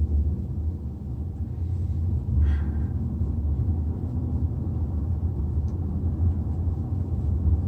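Steady low rumble of a Hyundai Tucson (NX4) on the move: road and engine noise heard from inside the cabin.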